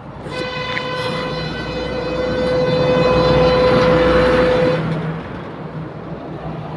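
A vehicle horn sounding one steady, unwavering note, held for about four and a half seconds, over the rumble of passing traffic that swells and then fades.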